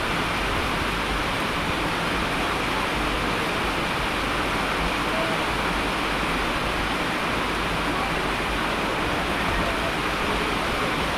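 Steady heavy rain, an even unbroken hiss of falling water with no distinct drops or breaks.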